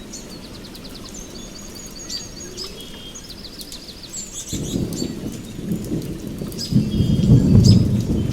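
Thunder rumbling over steady rain, the rumble building about halfway through and loudest near the end. Birds call in quick repeated trills throughout.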